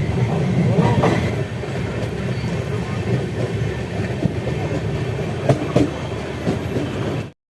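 Express passenger train running at speed: a steady rumble with occasional sharp clicks of wheels over the rails. It cuts off suddenly near the end.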